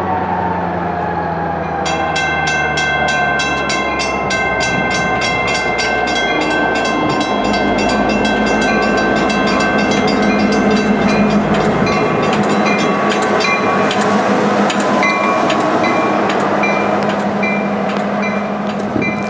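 A train moving on the rails with a locomotive running. From about two seconds in, a bell rings rapidly and steadily, continuing to the end.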